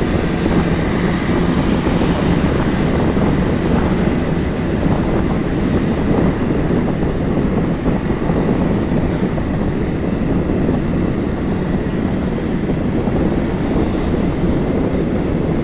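Steady road traffic noise: a continuous stream of vehicles running along a busy road.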